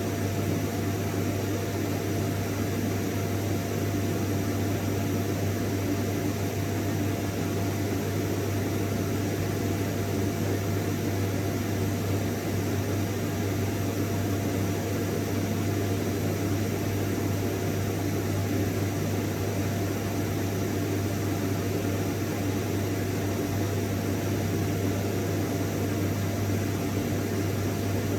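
Vacuum cleaner motor running steadily, a constant whooshing noise with a low hum and a faint steady whine.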